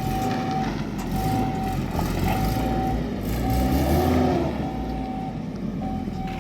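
A vehicle's reversing alarm beeping, about one long beep a second, over the steady rumble of its engine.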